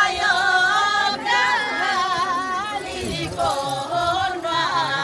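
Voices singing a slow chant in long, wavering held notes, with short breaks between phrases.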